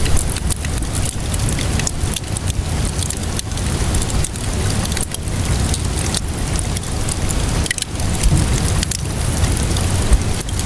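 A wood fire crackling, with frequent sharp pops and snaps, over steady rainfall and a constant low rumble.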